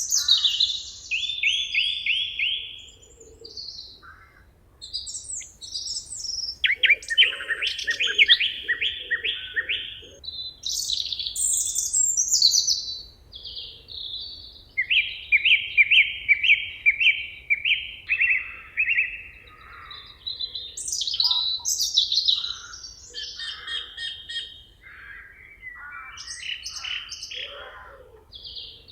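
Several songbirds singing together in a forest, songs and chirps overlapping. Every few seconds one bird sings a phrase of fast repeated notes, about a second or a few seconds long, between higher, shorter calls.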